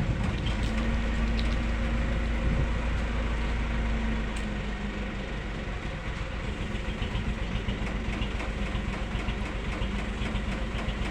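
An engine idling steadily with a deep low rumble.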